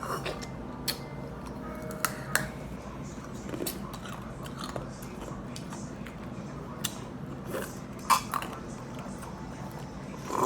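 Ice being bitten and crunched: a few scattered sharp crunches and clicks, spaced a second or more apart.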